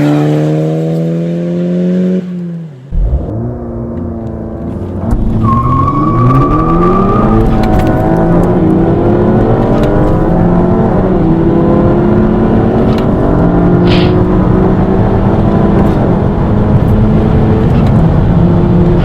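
Car engine under hard acceleration, its pitch climbing steadily through each gear and dipping briefly at every upshift, several times over. Near the start the revs fall away and the sound breaks off briefly before the run begins.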